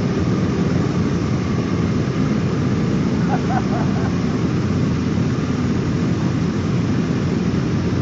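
Sport motorcycles idling together in a group, a steady low rumble.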